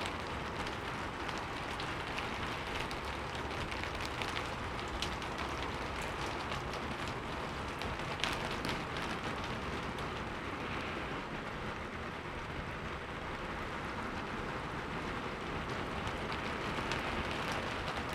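Heavy rain falling steadily, a dense even hiss with scattered sharp taps of individual drops.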